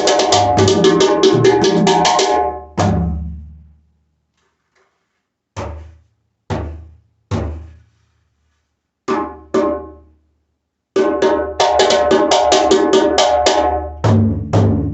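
Guinea Lenke djembe with a very tight buffalo calfskin head, played by hand. A fast run of strokes is followed by a pause with a few single strokes left to ring. Then another fast run ends on two deep bass strokes.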